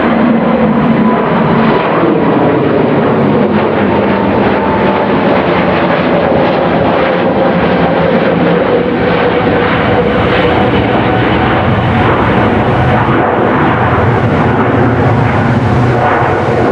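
Airbus A320neo-family airliner's Pratt & Whitney PW1100G geared turbofans at takeoff thrust, passing nearly overhead: a loud, booming jet roar with engine tones that slowly fall in pitch as it goes by.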